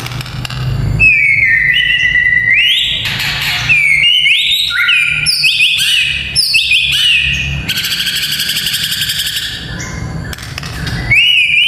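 White-rumped shama singing: loud whistled phrases of rising and falling notes, broken about eight seconds in by a harsh, rapid rattling chatter lasting a couple of seconds.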